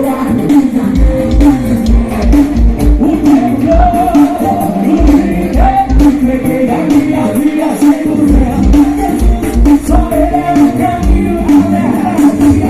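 Live gospel band playing, with a voice singing over a steady kick-drum beat.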